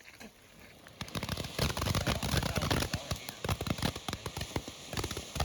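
A lit firework starts crackling about a second in, a rapid, unbroken string of sharp pops.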